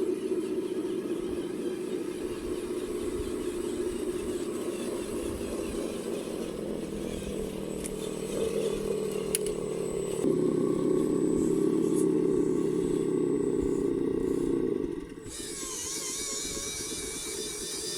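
Radio-controlled model machinery running: a steady motor-and-gearbox drone that gets louder and heavier about ten seconds in, as if under load, and cuts off about fifteen seconds in.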